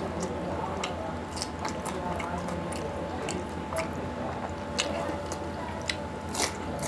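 Close-miked chewing and mouth sounds of a man eating a curry meal with green chilli and raw onion by hand: moist, squishy chewing and biting with many short, crisp clicks.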